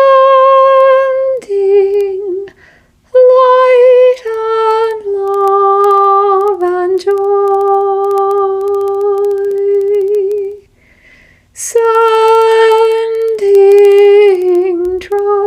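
A woman's voice toning: long, wordless sung notes held steady and stepping down in pitch from one to the next, with a pause for breath about two-thirds of the way through before the next held tone.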